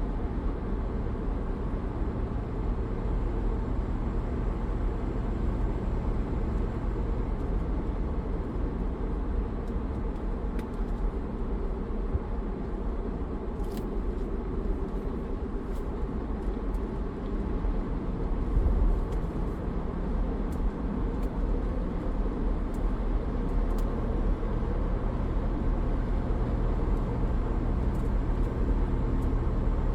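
A 2004 Land Rover Discovery 2's 4.6-litre V8, fitted with a Crower camshaft, running steadily while the truck is driven, along with road and tyre noise. A few faint ticks come in the second half.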